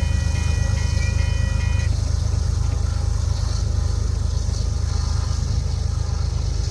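Freight train passing with a steady low, heavy rumble. A thin high ringing tone sounds over it and stops about two seconds in.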